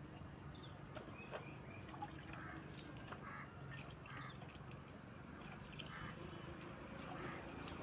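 Faint calls of domestic fowl, short and scattered, with a few light clicks.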